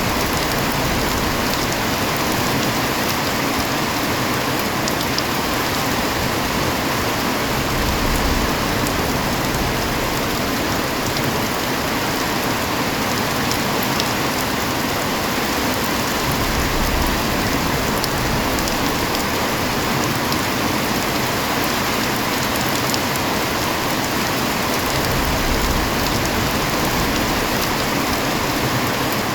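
Heavy rain falling steadily, a dense even hiss of drops with fine spatters of individual drops on hard surfaces.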